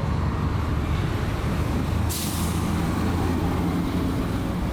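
A heavy road vehicle's engine running with a steady low rumble. A short hiss about two seconds in sounds like an air brake releasing.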